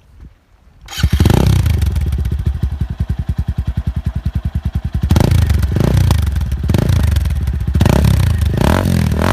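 TVS Apache RTR 200 4V single-cylinder engine through an aftermarket exhaust, starting about a second in with a rapid, even idle pulse, then blipped in several revs in the second half.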